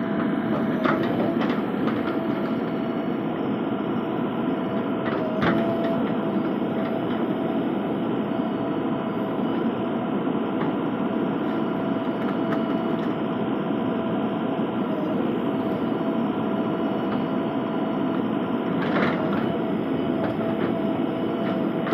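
JCB 3DX backhoe loader's diesel engine running steadily with a steady high whine, plus a few short knocks about a second in, around five seconds in, and near the end.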